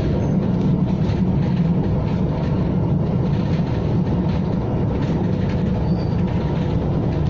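KTM ETS electric train running along the track: a steady, unbroken rumble with faint scattered clicks from the wheels on the rails.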